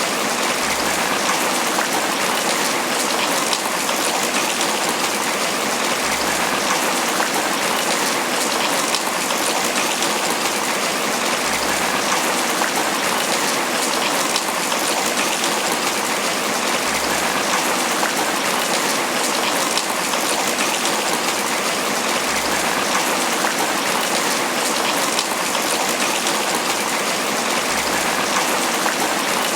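Tropical rain falling steadily on banana leaves: a dense, even patter of drops.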